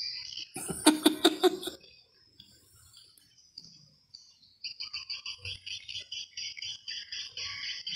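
Birds chirping, a fast, even twittering that starts again about halfway through, with a short, loud burst of several harsh calls about a second in.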